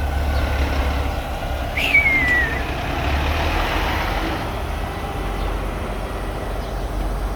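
Semi truck's diesel engine running with a steady low rumble. About two seconds in comes a short high squeal that falls in pitch.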